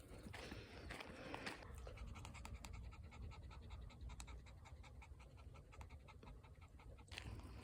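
A dog panting rapidly in a quick, even rhythm, starting about a second and a half in and stopping shortly before the end.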